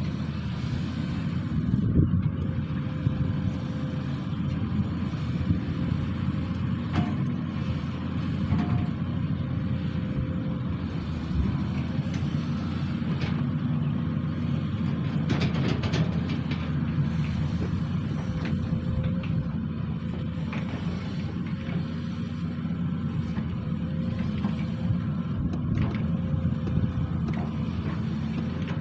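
SANY SY215C excavator's diesel engine running steadily as a low rumble, with a few short sharp knocks.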